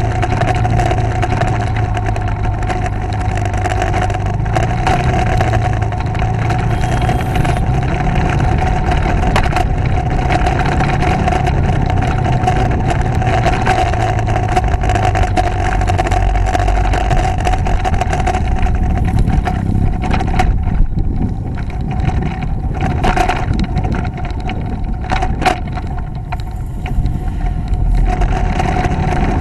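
Motorcycle engine running steadily as the bike is ridden along the road, a constant drone with road and wind noise. It eases somewhat quieter for several seconds in the latter half, with a few brief knocks.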